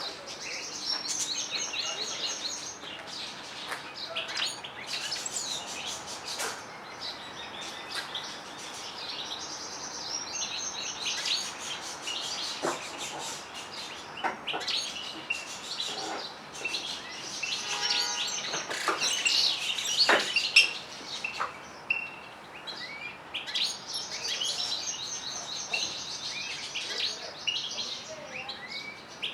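Canaries and goldfinches singing together: continuous high twittering song with fast trills and warbled phrases, swelling in several bursts.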